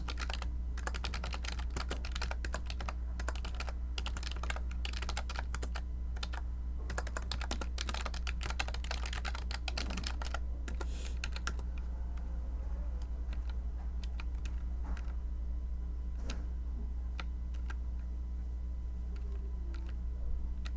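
Computer keyboard typing: rapid, continuous keystrokes for about the first half, then only occasional single key clicks. A steady low hum runs underneath.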